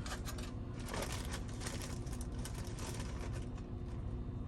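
Steady low hum of the semi-truck's idling engine heard inside the cab, overlaid by a string of light crinkles and clicks as aluminum foil and chicken are handled.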